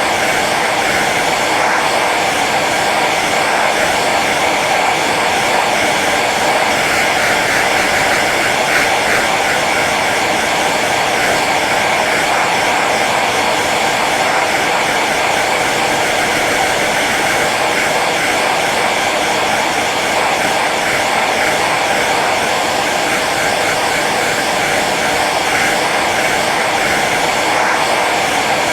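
Hair dryer running steadily on its low setting: an even rushing of air over the motor's hum.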